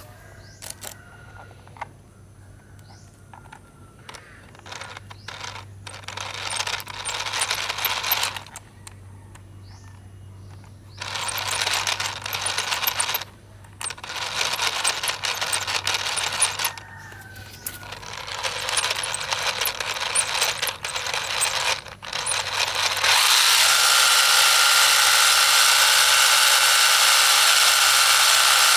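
Miniature diesel engine, starting in several short bursts with clicks and knocks between them, then running steadily with a high whine for the last few seconds.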